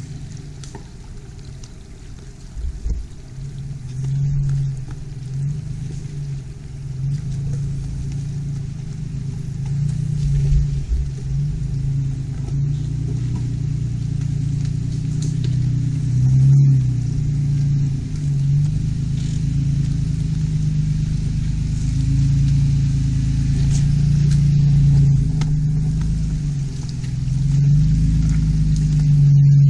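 Engine of an off-road SUV running steadily as it drives a rough trail, with a low rumble under it, gradually getting louder.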